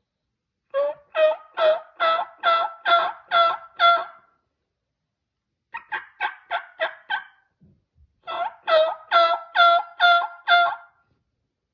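Turkey yelping in three runs of evenly spaced two-toned yelps, about two a second. The middle run is quieter and quicker than the two around it.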